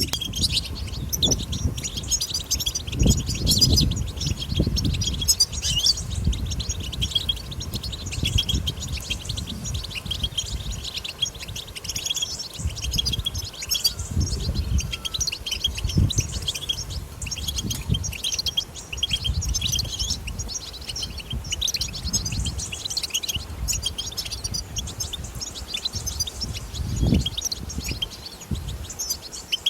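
European goldfinch twittering: a dense, unbroken run of quick high chirps. A low rumble swells and fades underneath.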